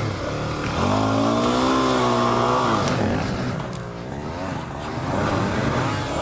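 Suzuki DR-Z400 single-cylinder four-stroke engine revved hard and held for about two seconds, eased off, then revved again near the end, its rear wheel spinning in deep mud and digging a hole instead of driving the bike out.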